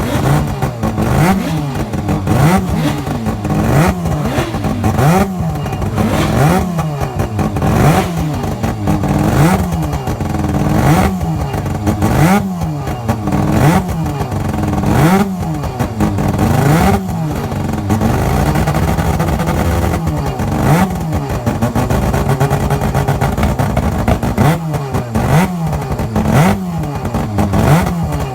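Norton rotary (Wankel) motorcycle engine revved up and down over and over, about once a second, settling to a steadier run for a few seconds in the middle before the revving resumes.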